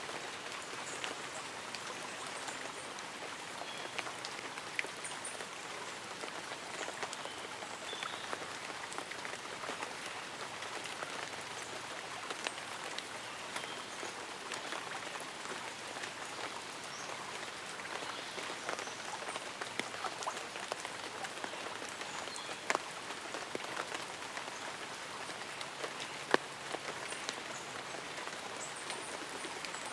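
Light rain falling steadily on leaves and an umbrella: an even hiss dotted with many separate drop taps, a few sharper louder ones near the end.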